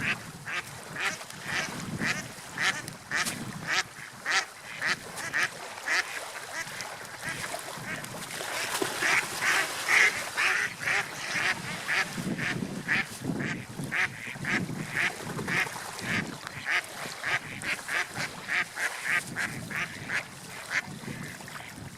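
Gulls calling: a long run of short, sharp calls, two to three a second, loudest about halfway through, over a low rumbling wash.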